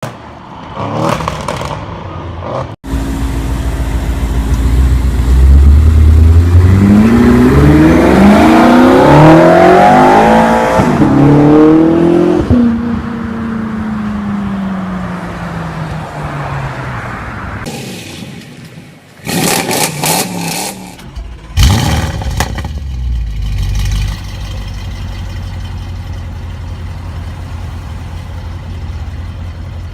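High-performance car engine and exhaust under hard acceleration: the pitch climbs and drops back several times as it shifts up through the gears. It then falls away steadily as the car slows. After a few short revs it settles into a steady low idle.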